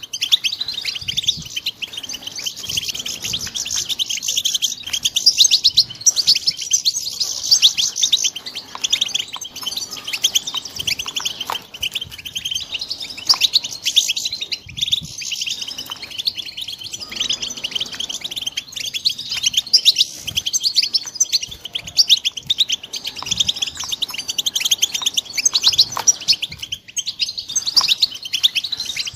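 Young European goldfinches chirping and twittering in a fast, unbroken stream of high notes.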